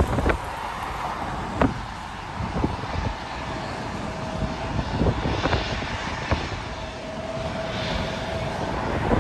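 Airliner jet engine noise at an airport, with gusting wind buffeting the microphone.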